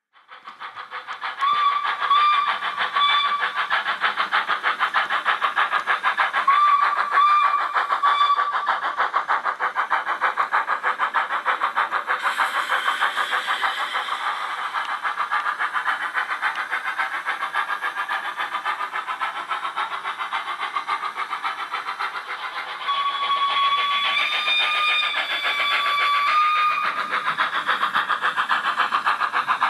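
Factory sound decoder in a Rapido OO gauge Hunslet 16in 0-6-0ST saddle tank model playing a rapid steam-engine chuff through its small speaker, with short whistle blasts about two and seven seconds in, a burst of hiss near the middle, and a longer whistle that shifts in pitch near the end.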